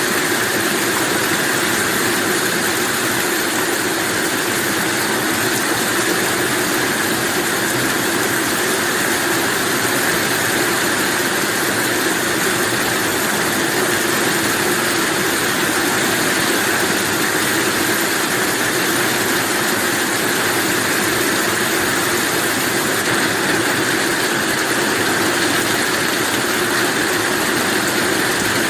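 Heavy rain falling steadily: an even, unbroken hiss with no let-up and no thunder.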